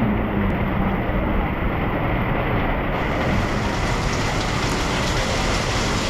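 Heavy rain pouring steadily in a flooded street, with a low rumble underneath.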